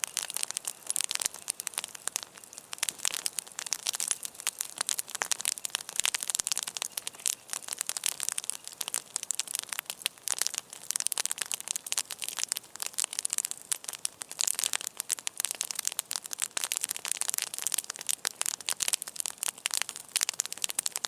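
Wood campfire burning, with dense, irregular crackling and popping throughout.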